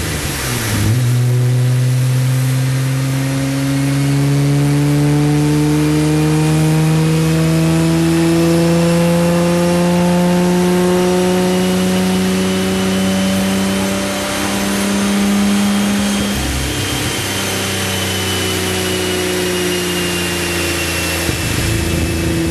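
Nissan Skyline GT-R's twin-turbo straight-six on a chassis dyno, making a pull: the engine note climbs steadily in pitch for about fifteen seconds with a thin high whine rising alongside it. About sixteen seconds in it drops off sharply, then winds down slowly and settles to a steady note near the end.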